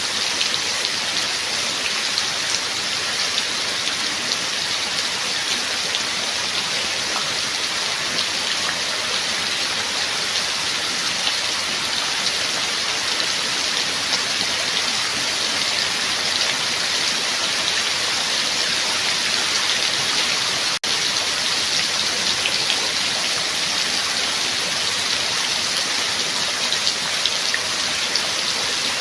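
Steady rain falling, an even hiss of many drops with fine individual patters, unbroken except for a split-second gap about three-quarters of the way through.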